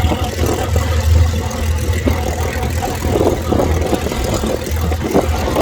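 Piston-engined aircraft running at low power on the ground while taxiing, a steady low rumble.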